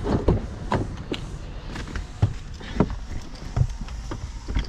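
Irregular knocks and thuds, about half a dozen, over a low steady rumble, as of someone walking up to and getting into a car.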